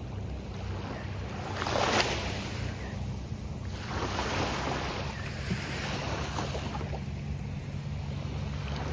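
Gulf of Mexico surf breaking on a sandy beach: one wave crashes about two seconds in, and a longer, softer wash follows from about four seconds, over a steady low rumble.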